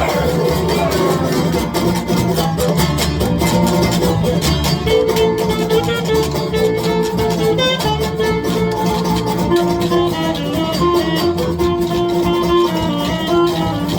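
Live folk band playing an instrumental passage: plucked strings over a quick, even clicking percussion beat, with a melody line holding long notes.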